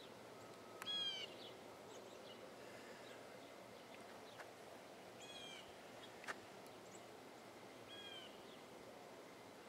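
A bird calls three times, each a short, slightly falling call, about three to four seconds apart. The first call is the loudest. Under it is a faint steady outdoor background, with one sharp click about six seconds in.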